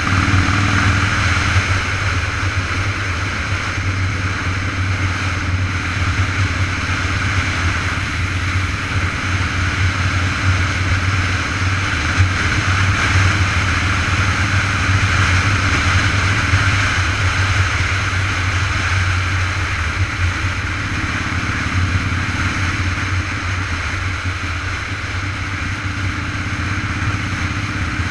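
Steady wind rushing over the microphone of a camera riding along on a moving bicycle, mixed with road noise.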